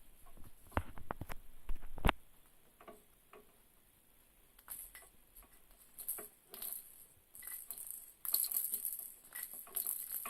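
Red-sided eclectus parrot playing with a Lamaze Captain Calamari baby toy: irregular clicks, taps and rattling, with a cluster of sharp knocks about one to two seconds in and scattered lighter ticks after.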